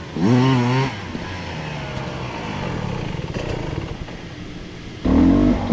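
Dirt bike engines revving as the bikes ride past on a trail. A loud rise in pitch comes in the first second, quieter engine note changes follow, and another bike comes in loud about five seconds in.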